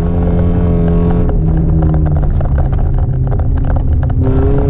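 Mercedes-Benz C180 W202's 1.8-litre four-cylinder engine heard from inside the cabin under way. The revs drop in two steps about one and two seconds in, then climb again near the end as the car accelerates, over a rush of road noise and scattered clicks.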